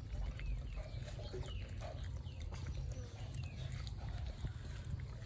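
Puppies giving short, high squeaks and whimpers, several times, over a steady low rumble of wind on the microphone.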